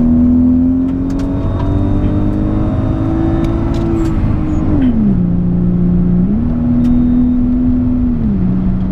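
Mk4 Toyota Supra's straight-six engine heard from inside the cabin under hard acceleration, over road and wind noise. Its pitch climbs steadily, drops sharply about five seconds in as the automatic gearbox changes up, then steps up and back down again a little after eight seconds.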